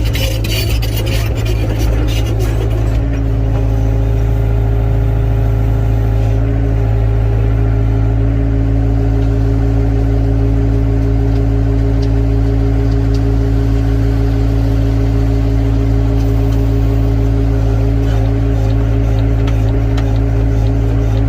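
Excavator's diesel engine running steadily at a constant pitch, with knocks and rattles during the first two seconds.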